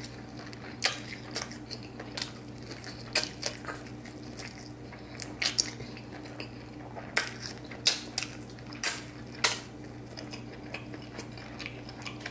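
Close-up mouth sounds of biting into and chewing a fried pork spare rib: sharp, irregular clicks and wet smacks several times a few seconds apart, over a steady low hum.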